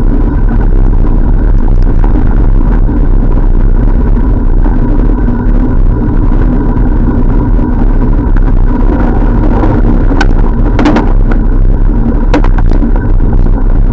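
Loud, steady rumble of wind and road noise on the microphone of a camera riding along on a bicycle, with a few sharp clicks about ten to twelve seconds in.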